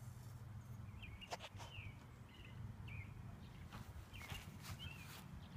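A small bird chirping faintly in short repeated calls over a steady low background rumble, with a few soft clicks.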